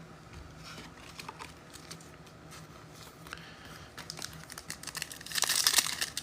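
Trading cards being handled, with soft scattered clicks of card edges. From about five seconds in comes the louder crinkling of a card pack wrapper being torn open.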